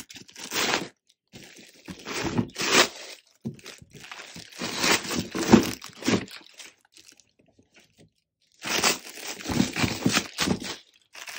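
Packaging of a ceiling fan being torn open and handled: cardboard and plastic wrapping crunching, tearing and crinkling in irregular bursts, with a short pause about two-thirds of the way through.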